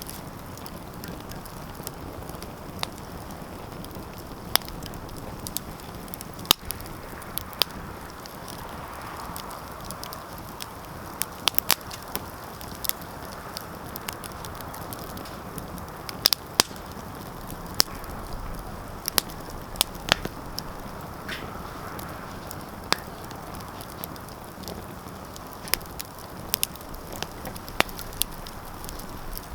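Wood fire burning in a fireplace, a steady low hiss with sharp, irregular crackles and pops scattered through.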